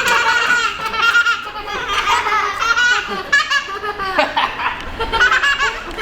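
Children laughing over and over in high voices.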